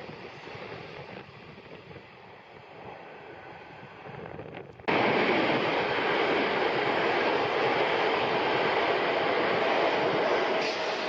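Electric train running through the station: a fainter rumble at first, then, about five seconds in, the noise jumps suddenly to a loud, steady rush of a train passing close by.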